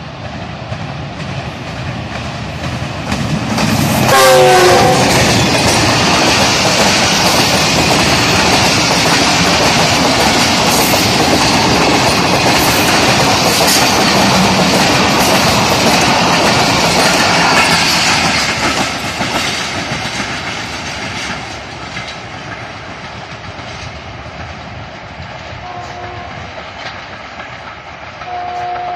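Train passing at speed: the locomotive horn sounds with a falling pitch as it goes by about four seconds in. The wheels then clatter loudly over the rail joints until about eighteen seconds and fade away. A horn sounds again briefly near the end.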